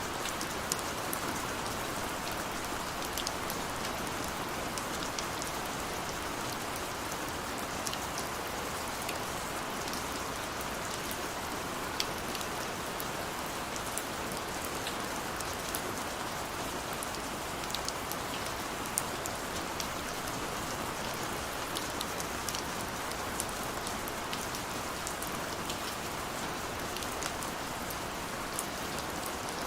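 Steady rain, a continuous even hiss with scattered small drop ticks.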